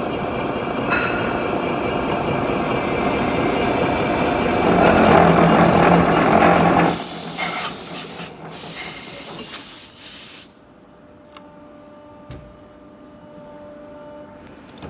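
Drill-rod welding and trimming machine running with a loud, steady noise that grows over the first several seconds. It is followed by a harsh high hiss, broken twice, that cuts off sharply about ten and a half seconds in, leaving a quiet hum.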